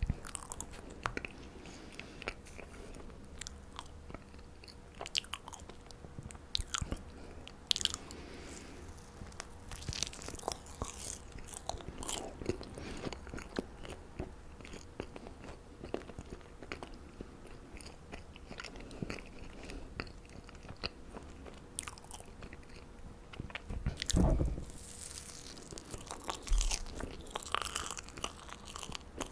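Close-up chewing and biting of marshmallows: soft, sticky, irregular clicks and crackles of mouth sounds, with a louder bite about three quarters of the way through.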